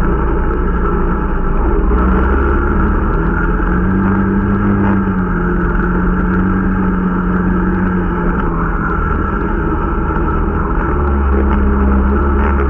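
Irbis Dingo T125 snowmobile's small 125 cc engine running continuously while riding, its pitch shifting slightly up and down with the throttle, as the new machine is being run in.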